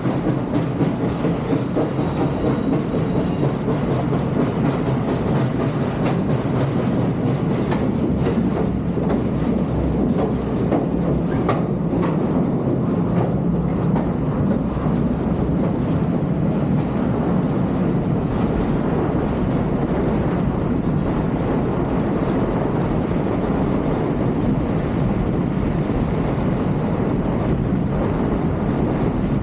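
Train rolling along the rails with a steady rumble and some clickety-clack of the wheels, with a few sharp clicks a little before the middle.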